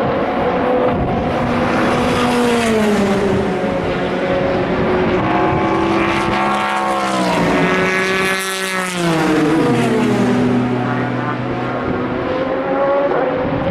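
Endurance race cars running past on the circuit, several engine notes overlapping. One passes close about eight seconds in, its pitch dropping sharply as it goes by.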